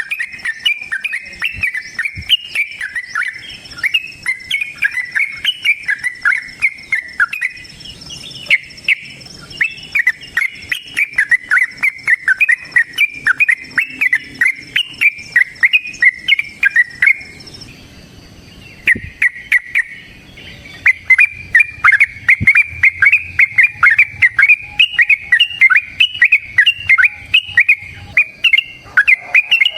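Yellow-vented bulbul (trucukan) singing a long, rapid, chattering run of notes, broken by a short pause about eighteen seconds in before the run starts again.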